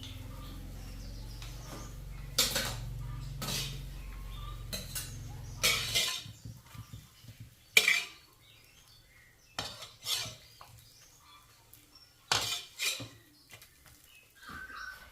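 Metal kitchen utensils clinking against pots and pans in a series of separate sharp knocks. A low steady hum runs underneath and stops about six seconds in.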